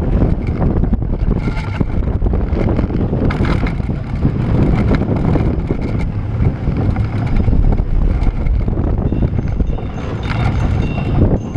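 Roller coaster train rumbling along its track, with wind buffeting the microphone.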